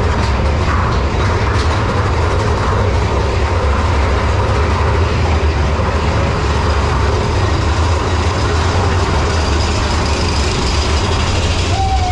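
Mine-train roller coaster running along its track: a steady rumble of wheels on rail with heavy wind on the chest-mounted camera's microphone. Near the end a single tone starts, falling in pitch.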